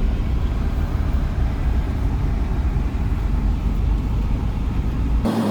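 Steady low rumble of road and engine noise inside a vehicle's cabin while driving. Just before the end it cuts off abruptly to a steady hum.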